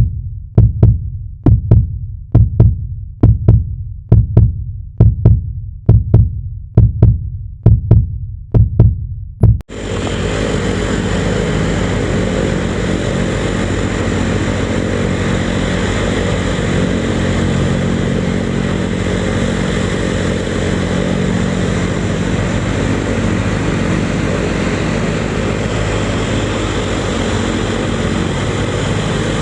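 About a dozen low, evenly spaced thumps, a little faster than one a second, like a heartbeat, then an abrupt switch about ten seconds in to the loud, steady noise of the Embraer 145's turbofan jet engines running, with steady tones in it.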